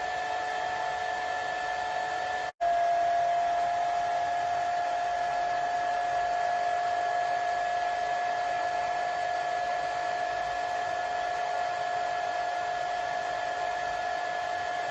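Hair dryer running steadily, a rushing blow with a steady motor whine over it. About two and a half seconds in it cuts out for a split second, then carries on, its whine slightly lower.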